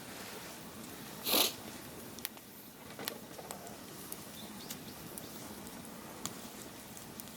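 Wood bonfire crackling, with irregular sharp snaps and pops and one louder short hissing burst about a second in.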